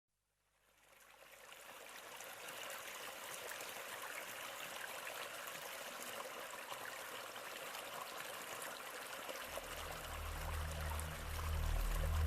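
Steady rush of flowing water, fading in over the first couple of seconds. From about three-quarters of the way in, wind buffets the microphone with a low rumble.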